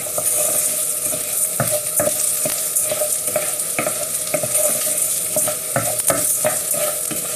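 Basmati rice and onion sizzling in a frying pan, stirred with irregular scrapes and taps of the spoon against the pan: the rice being toasted at the start of a risotto.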